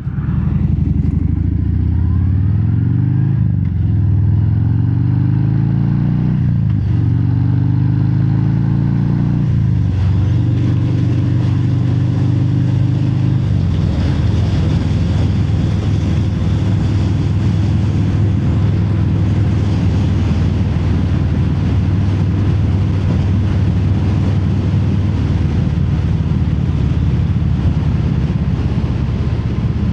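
Harley-Davidson Fat Bob V-twin through Vance & Hines Hi-Output slip-on mufflers with no quiet inserts, heard from inside the rider's helmet. It accelerates through three upshifts, the pitch rising and dropping back with each one, in the first ten seconds, then runs at a steady cruising speed.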